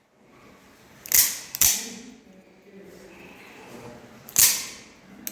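Maxace Neptune folding knife flicked open and snapped shut: three sharp metallic clicks, two in quick succession about a second in and one more near the end, each ringing briefly in the cave.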